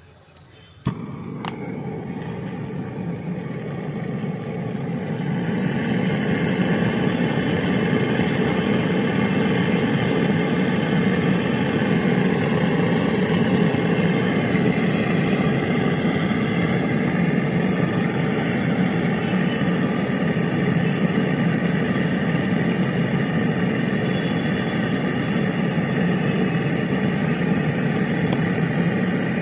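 A motor switched on with a click about a second in, then running steadily, building up over the first few seconds and holding level.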